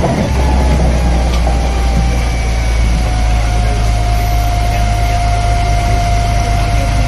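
A heavy engine running steadily at low revs, a deep continuous rumble with a faint whine that slowly falls in pitch.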